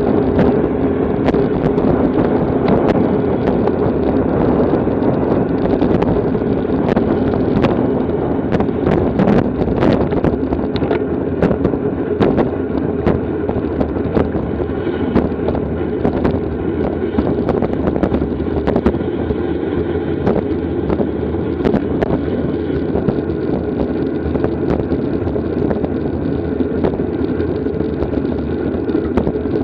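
Steady wind rush and road noise on the microphone of a camera riding along in a bicycle criterium, with many small clicks and rattles scattered throughout.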